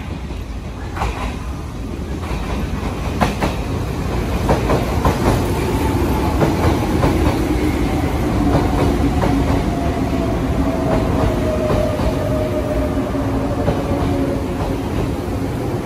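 Izu Kyuko 2100 series Resort 21 electric train running in along the platform, its wheels clacking over the rail joints. From about a third of the way in, a whine falls slowly in pitch as the train slows.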